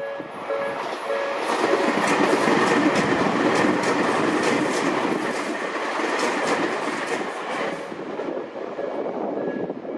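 A Tobu Skytree Line train passing over a level crossing, its wheels clattering over the rail joints for about six seconds. The crossing's electronic warning bell chimes about twice a second, plain at the start and again near the end, and is drowned out while the train goes by.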